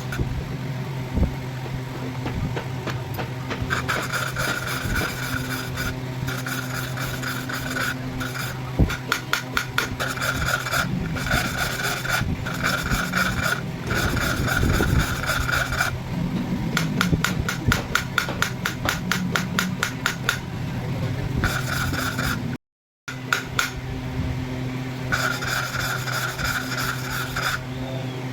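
Metal rasping and scraping on a cylinder head's exhaust valve guides over a steady machine hum, the scraping coming and going in strokes of a second or two. There is a stretch of rapid fine clatter in the middle and a brief break in the sound about three-quarters through.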